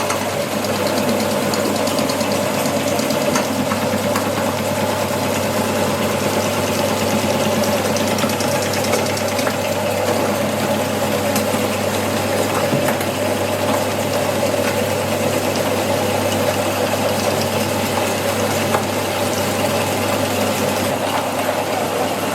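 Electric meat grinder running steadily under load as it grinds chicken: a constant motor hum with a fine crackle throughout.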